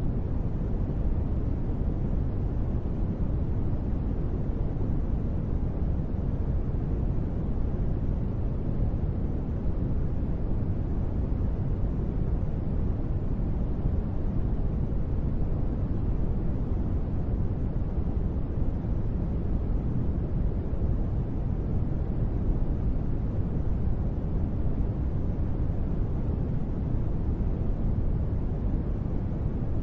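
Steady, deep noise of a sleep-sound track billed as gentle rain, muffled and low-heavy, unchanging throughout, with no drops, thunder or music standing out.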